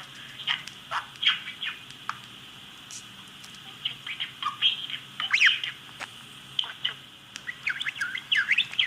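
A bird chirping and squawking in short calls that glide up and down in pitch, sparse at first, with a lull about two seconds in, then coming faster in the second half.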